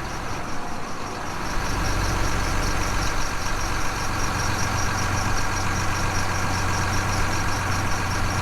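Machinery running steadily: a low hum that grows louder about a second and a half in, with a fast, regular high-pitched ticking over it.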